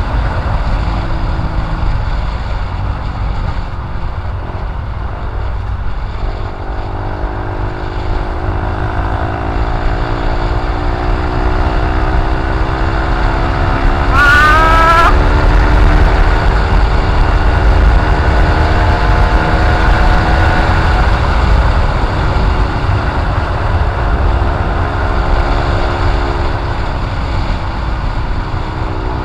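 Honda CB150R's single-cylinder engine running through a short full-system aftermarket exhaust: a steady low rumble whose pitch climbs slowly, holds, and eases back down. A brief high chirp cuts in about halfway through.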